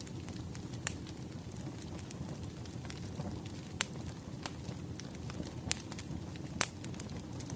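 Burning firewood crackling: a low steady rumble with sharp pops scattered through it, four of them standing out.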